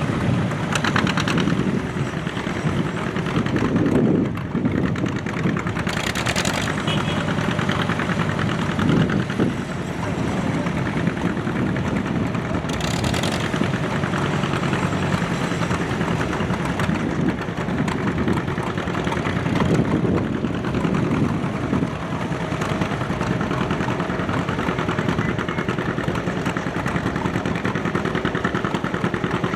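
Antique farm tractor engine running steadily under load, with the even beat of its firing throughout. Two brief bursts of hiss come about six and thirteen seconds in.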